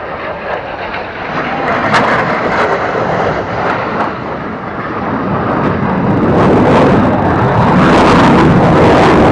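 Aircraft flying past at an airshow: a loud engine roar that builds steadily and is loudest near the end.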